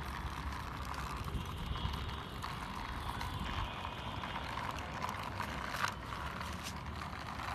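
Plastic toy steam engine pushed along by hand, its plastic wheels rolling and rattling, with a few sharp clicks about six seconds in.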